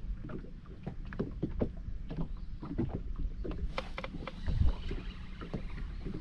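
Irregular light knocks and taps, with a heavier low thump about four and a half seconds in.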